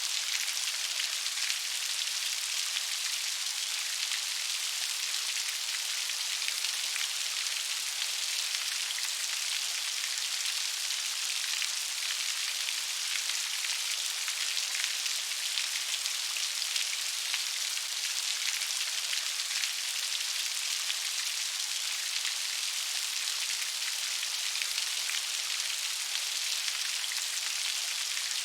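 Steady rain splashing on leaves: a dense, even hiss of drops with many small pattering ticks, unchanging throughout.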